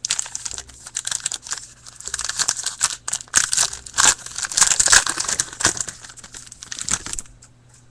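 A hockey card pack's wrapper being torn open and crinkled in the hands, a dense crackling rustle that stops about a second before the end.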